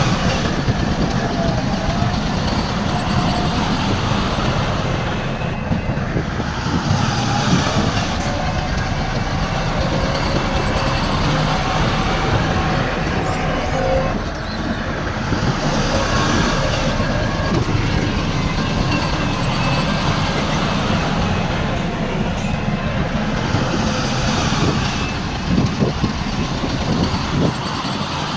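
Bulldozer working, its diesel engine running steadily under load while the steel tracks clatter; loud and continuous, swelling now and then.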